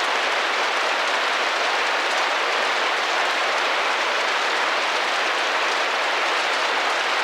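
Steady rain pattering against a glass window, a dense even hiss of many small drops that neither swells nor fades.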